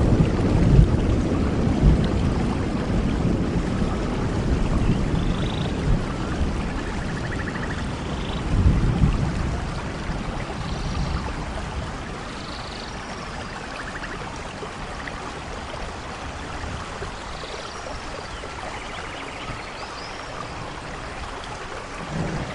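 Steady rain with a low rumble of thunder in the first half that dies away, then starts to rise again at the very end. A few faint high chirps sound over the rain.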